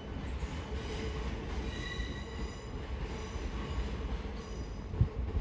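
Class 465 Networker electric multiple unit running slowly into the platform, its wheels squealing in thin high tones that rise and fade over a low rumble, with a single knock about five seconds in.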